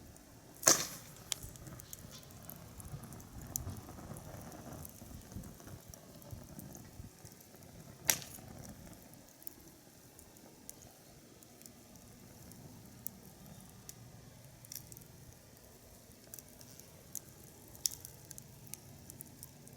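Wood fire crackling, with scattered small pops and two louder sharp cracks, one about a second in and one about eight seconds in.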